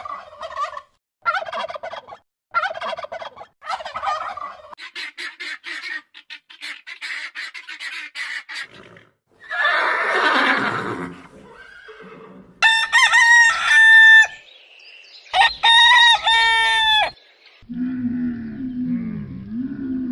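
A domestic turkey gobbling in four quick rattling bursts about a second apart, followed by rapid clicky pulses. Then come a loud breathy snort, two long high animal calls, and near the end a camel's low, wavering rumbling groan.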